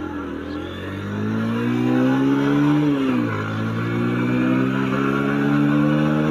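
Bajaj Pulsar 150's single-cylinder engine revving up as the motorcycle accelerates from a crawl. The note climbs in pitch, drops at a gear change about three seconds in, then climbs again.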